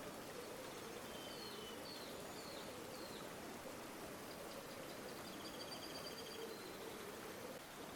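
Steady rush of flowing river water. Faint bird calls sound over it: a few short chirps in the first few seconds and a quick high trill just past the middle.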